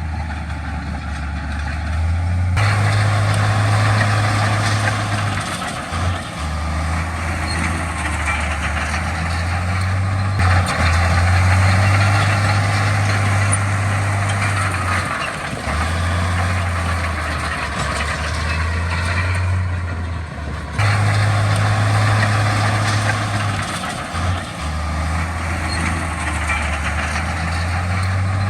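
Heavy diesel earthmoving machinery running: a steady low engine drone with engine and track or tyre noise above it. The sound changes abruptly several times, as between shots of different machines.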